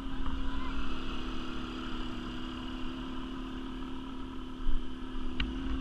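Quad bike (ATV) engine idling steadily, with a short sharp click near the end.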